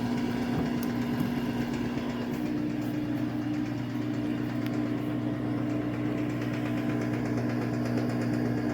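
Samsung AddWash front-loading washing machine running during its rinse cycle: a steady mechanical hum, with a second higher tone joining about two seconds in.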